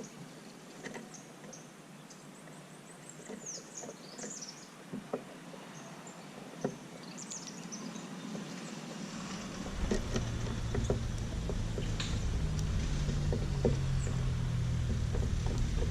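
Small birds chirping in short, scattered calls with light clicks and taps. About halfway through, a low rumble comes in and grows louder, covering the chirps.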